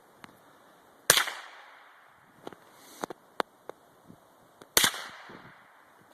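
Two shots from an antique .22 rifle, about three and a half seconds apart, each with a short fading echo. Several sharp, quieter clicks fall between them.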